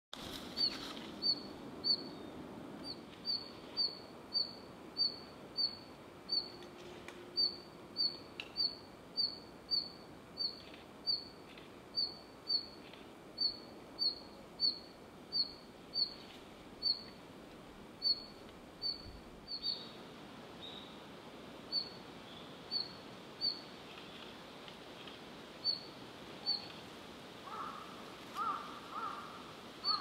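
Male red-flanked bluetail calling: a short high note repeated steadily about twice a second, coming more sparsely after about twenty seconds, with a few lower notes near the end.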